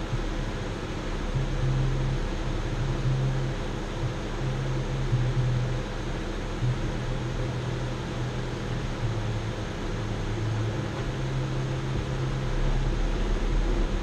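Jeep engine running steadily, a low hum that wavers slightly in pitch, over a steady rushing noise.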